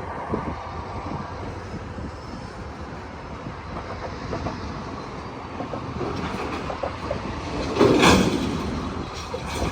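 Freight train moving slowly through a rail yard: a steady rumble with scattered clicks and knocks from wheels and cars. A brief loud rush of noise comes about eight seconds in.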